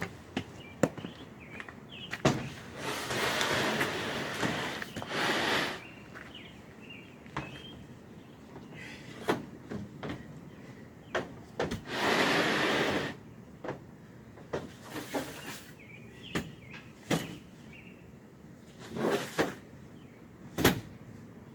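Gear being handled and packed into a truck: scattered knocks and clicks, with several longer scraping or rustling noises, the longest a few seconds in and another about twelve seconds in.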